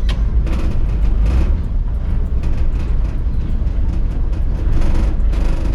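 Tour boat's engine running with a steady low rumble as the boat comes in to moor, with scattered clicks and knocks over it.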